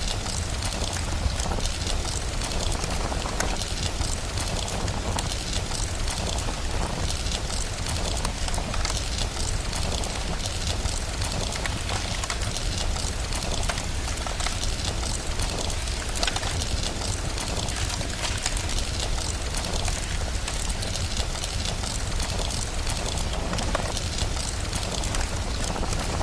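Steady rain-like hiss with scattered small crackles of a burning fire and a steady low rumble underneath.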